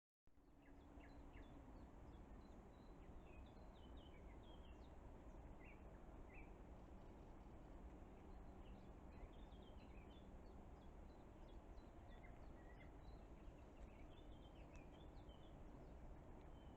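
Faint, scattered chirps of small songbirds, many short calls over a steady low background rumble and hiss.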